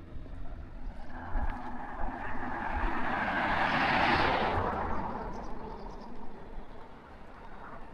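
A car passing by: its tyre and engine noise swells, is loudest about four seconds in, then fades away.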